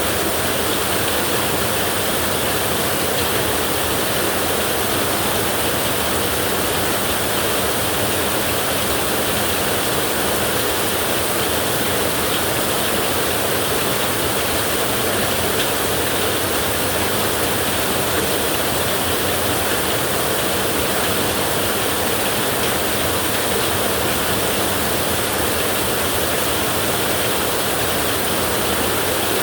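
Heavy rain falling steadily on a tin roof, a dense, even hiss with no breaks or thunderclaps.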